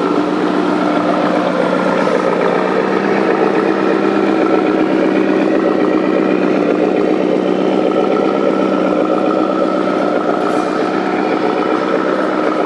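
Truck engine sound running steadily, with a constant pitched hum over a dense rattle that holds level throughout.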